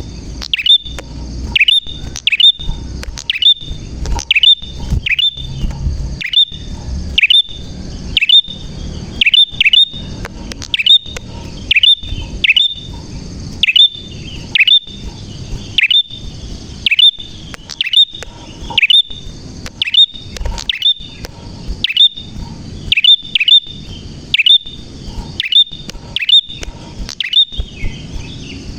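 Prenjak (prinia) singing vigorously: a loud, steady run of sharp, high chirps, each sweeping quickly downward, coming about one or two a second and sometimes in pairs.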